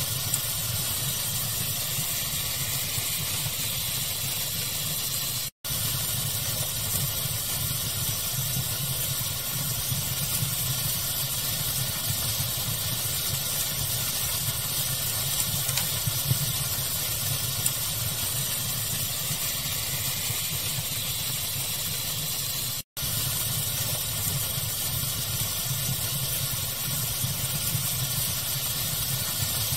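Steady pink noise blended with a crackling fire, a few small crackles popping out of the even hiss. The sound cuts out for an instant twice.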